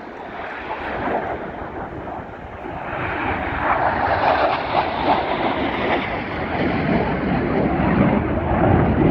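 Airplane flying past, its engine noise swelling about three seconds in and staying loud.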